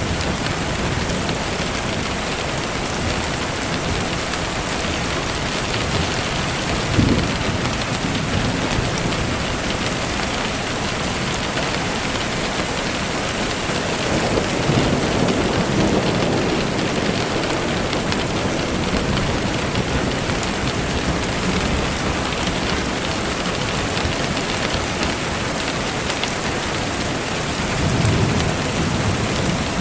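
Steady rain falling, a dense even hiss, with low rumbling swells rising under it: a brief one about seven seconds in, a longer one around the middle, and another near the end.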